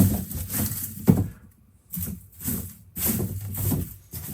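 Dry garlic bulbs being handled and set into a cardboard box on a scale: irregular rustling and light knocks in several clusters, fading near the end.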